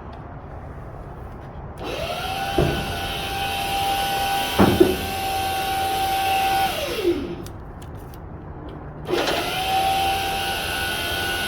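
A motor spins up, runs at a steady pitch with a hiss for about five seconds, winds down, and starts again near the end. Sharp knocks come twice while it runs.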